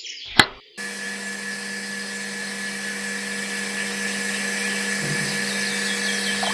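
A sharp click, then a small electric motor starts just under a second in and runs at a steady speed with a constant hum and a high whine.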